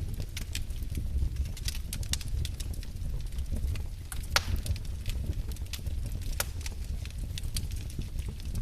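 Wood fire burning in a fireplace: a steady low rumble of flames with irregular crackles and pops of the logs, one louder pop a little past four seconds in.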